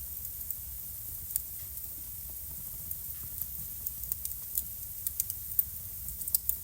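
Wood fire crackling in a fireplace: sharp pops and snaps that come more often in the second half, over a low steady rumble.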